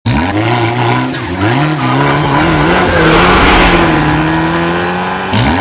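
Car engine revving hard, its pitch dipping and climbing again twice, with a hiss swelling in the middle.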